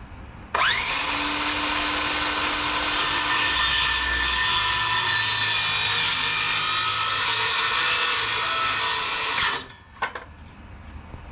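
Electric power saw spinning up with a rising whine and cutting through plywood for about nine seconds, making a plunge cut between drilled holes to open a hand slot, then stopping, with a brief second squeeze of the trigger just after.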